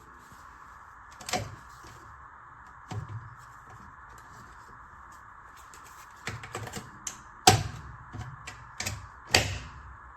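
Irregular sharp clicks and knocks, a few scattered and then a busier cluster in the second half, the loudest two near the end, over a steady hiss.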